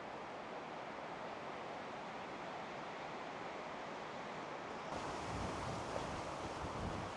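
Steady rushing outdoor noise with no distinct events. About five seconds in, the sound changes abruptly and low gusts of wind buffet the microphone.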